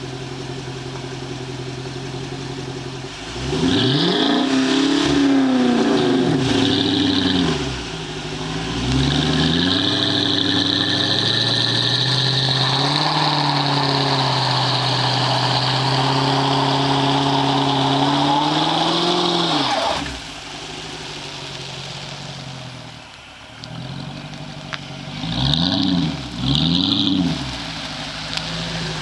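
2007 Dodge Charger R/T's 5.7-litre Hemi V8 through an SLP Loudmouth catback exhaust: idling, then revved several times. Near the middle it is held at high revs for about ten seconds, then drops back to idle, and near the end it is blipped twice.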